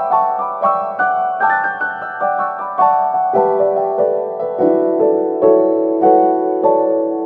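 Background piano music: a gentle melody of single struck notes, roughly two a second, each ringing out and fading.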